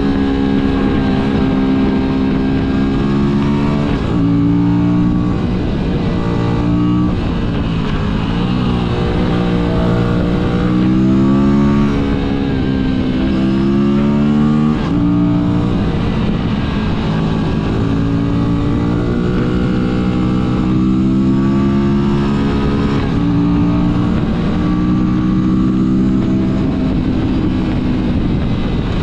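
Motorcycle engine pulling hard and shifting up through the gears several times: its pitch climbs, drops at each shift, then climbs again, over a steady low rush of wind and road noise.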